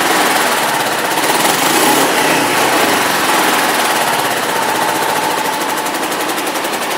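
2006 Kawasaki Ninja 500 (EX500R) carbureted 500cc parallel-twin engine running through its stock exhaust, a loud, steady, characteristic parallel-twin note.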